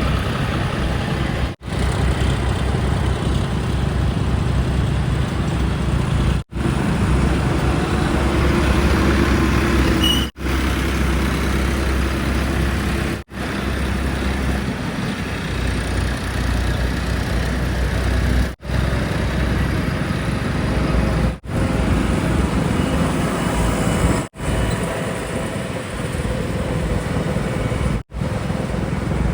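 Heavy diesel engines running steadily, with a deep low rumble. The sound drops out for an instant every few seconds and resumes.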